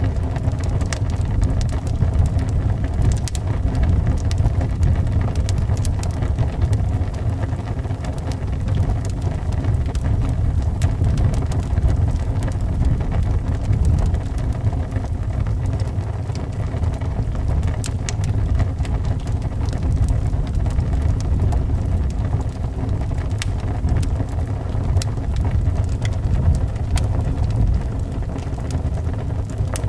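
Wood fire crackling with frequent sharp pops and snaps, over a steady low rumble of howling wind.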